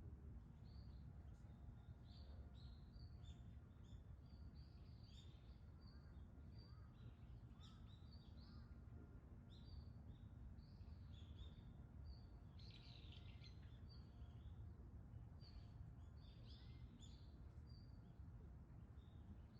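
Many small birds chirping faintly in short, high calls, over a low steady background rumble.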